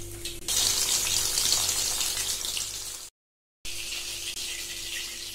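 Hot oil sizzling as chicken kofta balls deep-fry, a steady hiss. It cuts off abruptly about three seconds in and resumes, quieter, half a second later.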